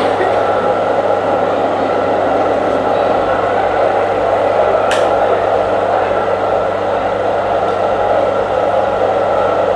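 Electric potter's wheel motor running with a steady hum, and a single sharp click about halfway through.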